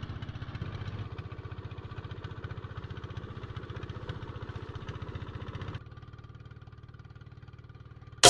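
Boat engine running steadily with a fast, even throb. It drops quieter about six seconds in.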